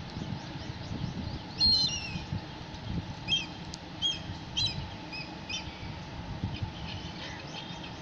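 Birds chirping: a string of short, sharp high calls from about a second and a half in to past the middle, then fainter chirps near the end, over a steady low background rumble.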